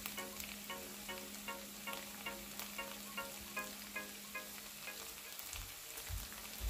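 Seasoned dried whitebait sheet sizzling and crackling in oil in a frying pan over medium heat, under light background music of short repeating notes. A few low thumps near the end.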